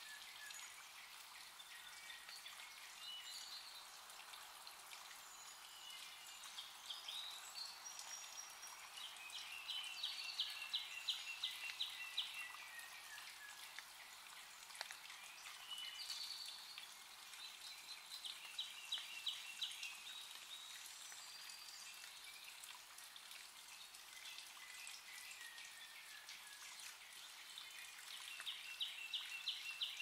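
Wild birds singing: three times a song made of a quick run of evenly spaced high notes, about three or four a second, comes round, with shorter chirps and falling whistles between, over a steady faint hiss.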